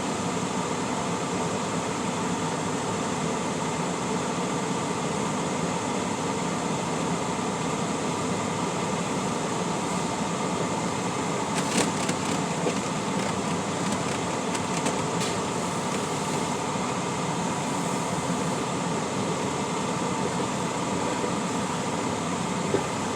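Semi truck's diesel engine running steadily at low speed, heard from inside the cab, with a few faint clicks near the middle.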